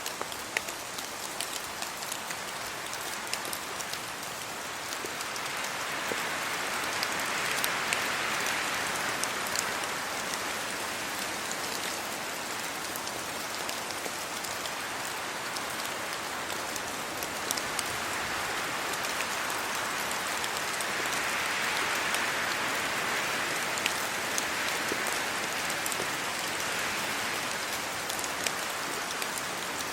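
Steady rain falling, with many small sharp drop ticks, and wind through tree leaves that swells twice, around eight seconds in and again from about twenty to twenty-seven seconds.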